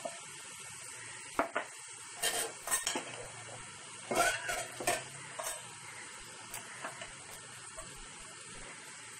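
Chicken pieces sizzling steadily in hot oil in a metal cooking pot, with a utensil stirring and scraping against the pot now and then, loudest around four to five seconds in.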